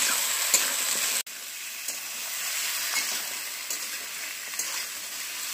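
Chopped vegetables (tomato, potato, green plantain, spiny gourd) sizzling in hot oil in a metal wok as a metal spatula stirs them, with light scrapes and clicks against the pan. The sizzle drops suddenly to a lower level about a second in and carries on steadily.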